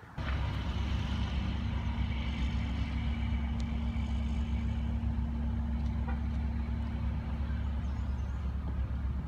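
A car driving at a steady speed: a continuous low rumble of engine and road noise with a steady hum, starting abruptly.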